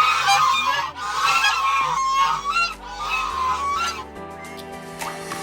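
Geese honking, a run of repeated calls that thins out and stops about three and a half seconds in.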